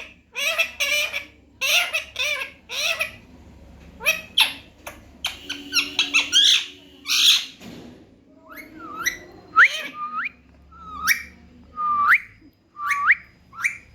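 Baby parrot calling: a rapid run of short squawks, then, after about eight seconds, half a dozen short whistled calls that each sweep upward in pitch.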